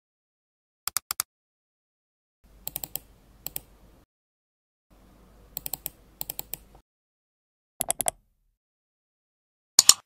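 Mouse click sound effects played one after another. Each is a short group of two to four sharp clicks, with silent gaps between them. Two of the groups, about two and a half and five seconds in, sit on a faint low hum. The loudest group comes near the end.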